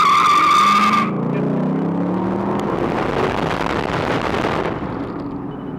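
Two Dodge Charger V8s launching hard from a standing start in a drag race, tyres squealing for about the first second, then the engines accelerating with rising pitch and tailing off after about five seconds.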